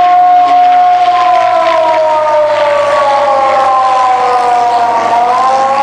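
Air raid siren wailing: two tones sounding together slide slowly down, then start rising again near the end.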